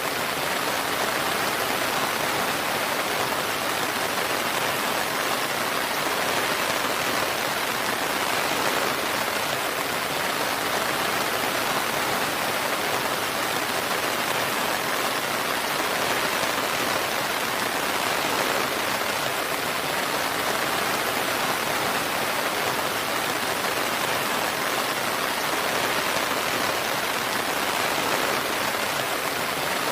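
Steady rain, a dense, even hiss of falling rain with no thunder.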